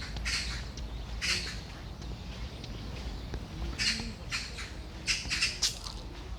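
Birds giving short, harsh, scratchy calls, spaced a second or more apart and then several in quick succession about five seconds in, over a steady low rumble.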